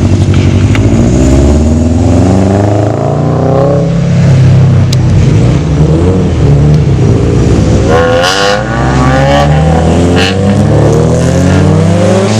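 Loud V-engine exhaust of a Jeep with valved exhaust, revving again and again: the pitch climbs and falls several times over a steady low rumble. The sharpest climbs come about two-thirds of the way through and again near the end.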